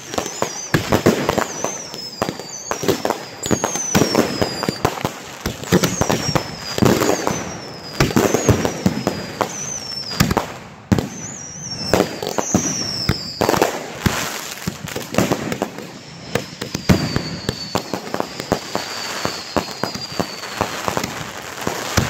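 Grand finale of consumer firework cakes and mortar racks firing together: a dense, continuous barrage of cracks and bangs, laced with repeated short whistles that fall in pitch.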